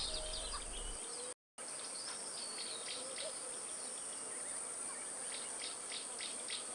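Wild outdoor ambience of insects chirring steadily on a high pitch, with short, faint high chirps scattered through it. The sound cuts out completely for a moment about a second and a half in.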